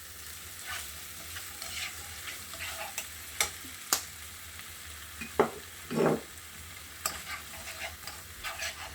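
A thick onion, pepper and tomato gravy sizzling in a pot while a spoon stirs it, with a few sharp clicks of the spoon against the pot.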